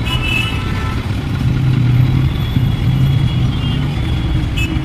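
Road traffic noise in a jam: the engines of cars and other motor vehicles running close by, with a steady low engine drone that swells in the middle.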